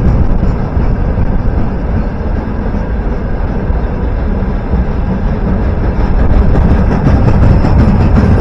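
A train running past, a loud steady rumbling noise that grows louder about six seconds in.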